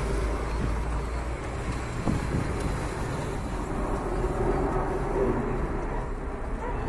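Jet engine noise of a Boeing 747-8F freighter landing: its four GEnx-2B turbofans making a steady, low-heavy rumble.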